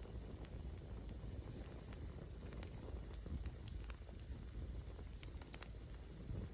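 Wood campfire burning and crackling: scattered sharp pops over a steady low rumble, with a quick cluster of pops about five seconds in.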